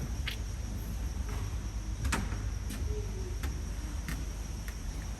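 A steady high-pitched trill runs over a low background rumble. A few short clicks and knocks are scattered through it, the loudest a little after two seconds in.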